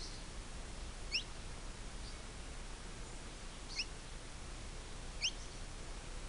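Bird calling: three short, high chirps that sweep upward, spaced over a couple of seconds, against a steady low background rumble.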